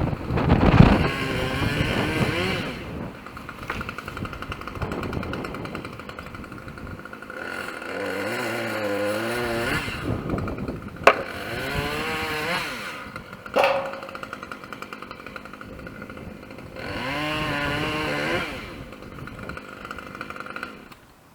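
Chainsaw revved hard in several bursts, its pitch wavering under load as it cuts, dropping back to a lower running between cuts. Two sharp cracks sound in the middle.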